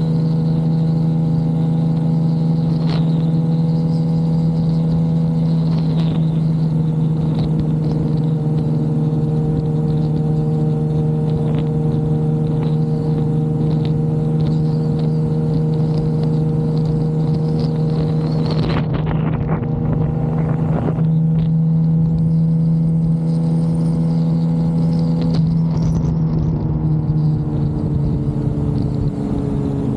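Suzuki GSX-R750 inline-four engine running at a steady cruising pitch, with wind rush underneath. Near the end the pitch falls as the throttle is eased off.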